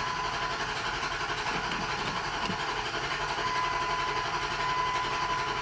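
Dodge Ram 1500 pickup's engine running or turning over with a steady mechanical noise and a steady high-pitched tone. The engine is in trouble just after the engine bay was washed with water around the distributor cap.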